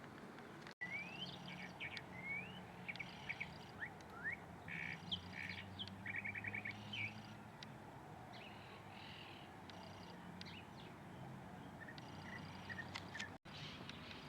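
Songbirds chirping and calling: short chirps, quick rising whistles and a fast trill, busiest in the first half and thinning out later, over a steady low hum. The sound drops out completely for an instant twice, once near the start and once near the end.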